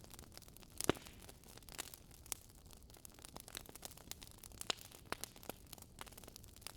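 Campfire crackling: burning wood snapping and popping at irregular moments over a soft hiss, with one sharper pop about a second in.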